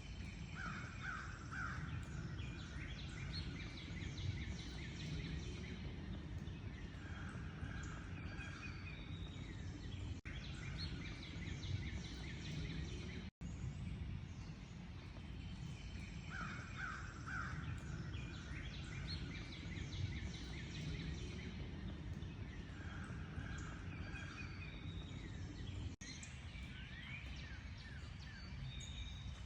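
Several wild birds chirping and calling over a steady low rumble of outdoor background noise, including harsher, lower calls around the middle of the bird range. The sound cuts out for an instant about 13 seconds in, and the same run of calls then repeats.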